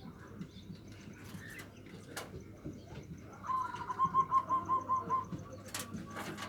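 Local zebra dove (perkutut) singing in the 'nutut' style used as a lure to provoke rival males: a quick rolling series of about eight cooing notes lasting about a second and a half, starting about halfway in. A few sharp clicks and faint chirps sound around it.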